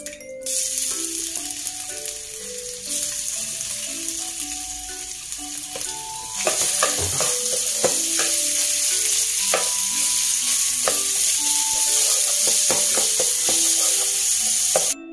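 Ground pork sizzling in hot oil in a nonstick wok as it is stirred and broken up with a wooden spatula. The sizzle grows louder about three seconds in and again about six seconds in, and from then on the spatula clicks and scrapes against the pan.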